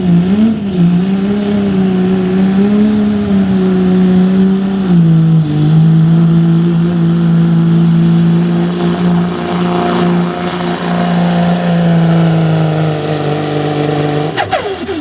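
Diesel 4x4 pickup truck's engine at full throttle pulling a weight sled, held at high revs. The pitch climbs at the start, dips about five seconds in, holds steady, then falls away sharply near the end as the driver lets off.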